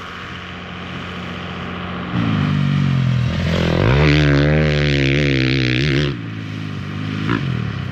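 Motor vehicle engine running, getting much louder from about two seconds in, its pitch sliding down and up, then dropping back to a steady lower level about six seconds in.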